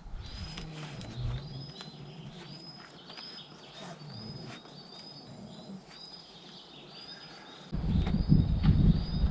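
A small songbird calling over and over, short high notes with a quick upward hook about twice a second, with scattered faint clicks. About eight seconds in a loud low rumble starts and drowns out the rest.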